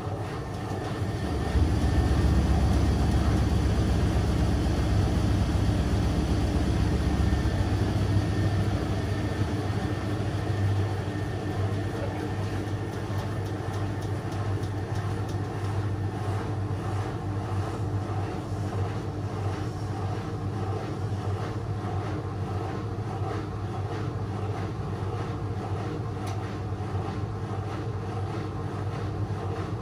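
A Whirlpool FL 243-500 washing machine running with a steady mechanical hum. A louder low rumble comes in about a second and a half in and fades out around eight seconds.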